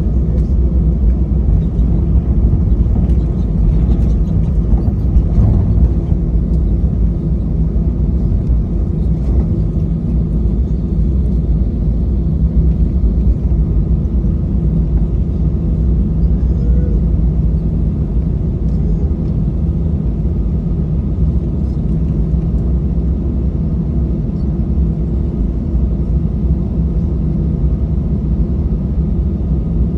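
Airbus A320 cabin noise heard from a window seat: a steady low rumble with a constant engine hum, even in level throughout, typical of the jet engines at low power while taxiing.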